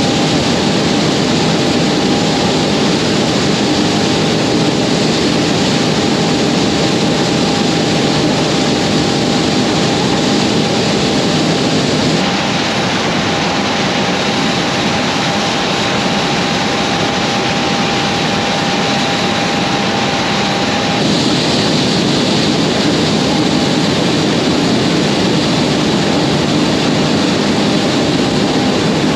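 Heavy diesel engine running steadily with a constant whine over it; the sound shifts slightly about 12 seconds in and returns about 21 seconds in.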